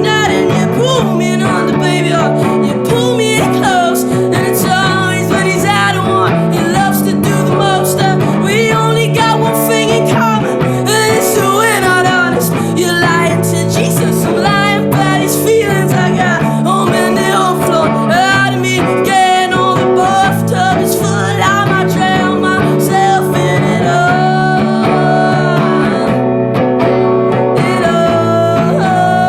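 A band playing a guitar-driven rock song with bass and drums, in a stretch without sung words.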